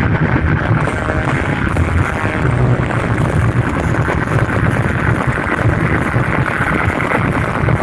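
Large competition-style sound system playing music at high volume, the heavy bass strongest, with a steady dense noisy mid-range over it.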